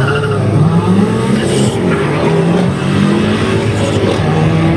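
Drag-racing car engines at full throttle, accelerating hard through the gears. The engine pitch climbs and drops back at each gear change.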